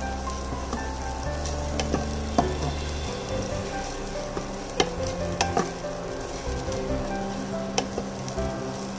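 White chickpeas and grated coconut sizzling in a nonstick frying pan as a wooden spatula stirs them, with a few sharp knocks of the spatula against the pan.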